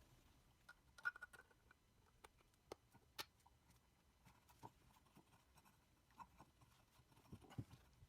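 Near silence in a small room, with a few faint, sharp clicks and taps scattered through it.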